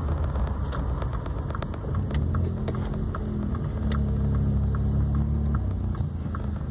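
VW Up TSI's turbocharged 1.0 three-cylinder engine running with road noise as the car drives. The engine note grows louder for a second or so around the middle, then eases off. A faint, regular light ticking runs through it.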